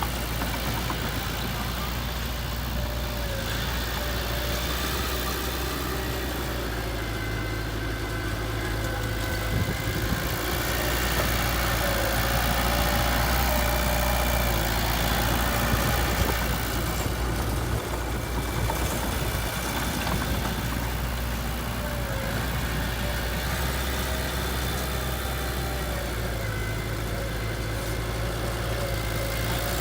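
Heavy diesel engine of a construction vehicle running steadily near idle, growing somewhat louder for a few seconds midway.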